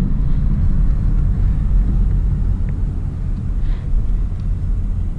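Ford Mustang GT's 5.0-litre V8 heard from inside the cabin while driving, a steady low rumble at light throttle that eases slightly.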